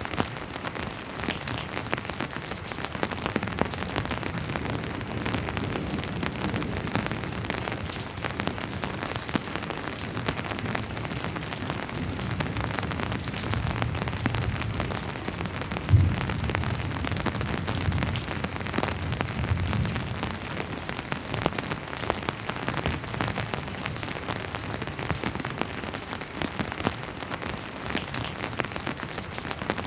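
Steady rainfall with many individual drops ticking. A low rumble of distant thunder swells through the middle, with one sudden low thump about sixteen seconds in, the loudest moment.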